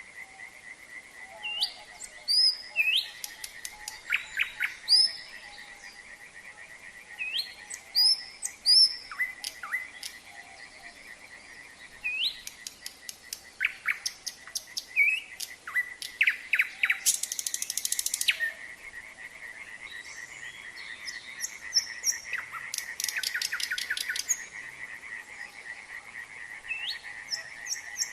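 Nightingale singing in varied phrases of upward whistles, fast repeated notes and harsh rattling trills, with short pauses between phrases. Underneath runs a steady trilling chorus of frogs.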